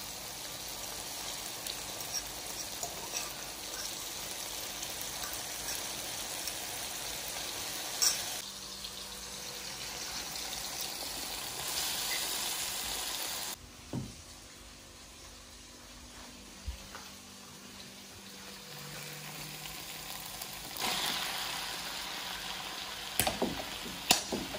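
Salt fish with tomato and green pepper sizzling as it fries in a pot, with a few sharp clinks of a spoon against the pot. The sizzle drops quieter for several seconds in the middle.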